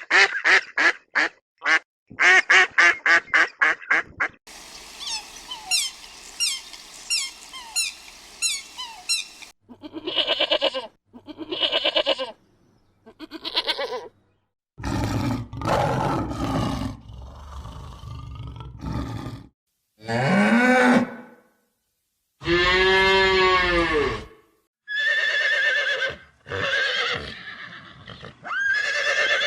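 A run of different farm animals calling, one short clip after another, each cut off abruptly: first a fast series of calls, then chirping, then longer pitched calls, among them one long call that rises and falls in pitch.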